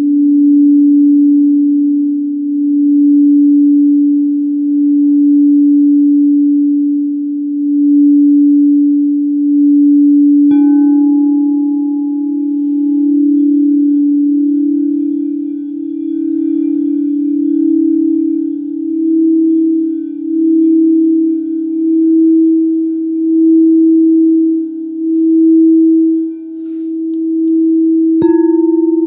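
Singing bowls sounding a low, steady, pulsing tone. About a third of the way in a bowl is struck, adding a slightly higher tone with ringing overtones, and another strike comes near the end.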